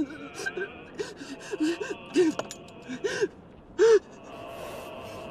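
A person gasping and whimpering in short, frightened breaths, several sharp voiced gasps with the loudest about four seconds in, then a steady background hum.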